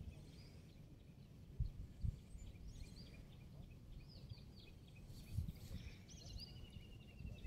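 Birds calling: several short, high downward chirps, then a fast, even trill over the last second and a half. Underneath is faint outdoor background noise with a few low thumps.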